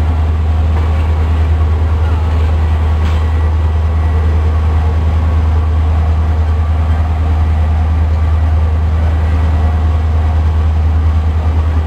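Passenger train coaches rolling past close by: a loud, steady low rumble of wheels on the rails, with no break or change.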